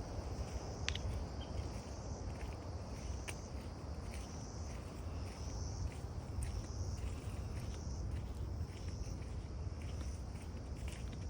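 Insects calling in a high, pulsing buzz that swells and breaks off about once a second, over a steady low rumble, with scattered sharp clicks.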